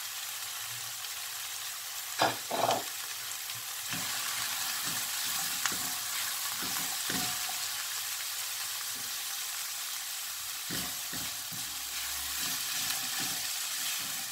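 Diced onion, carrot and celery sizzling in hot oil in a nonstick wok, with a silicone spatula stirring and scraping through them. Two sharp knocks a little after two seconds in.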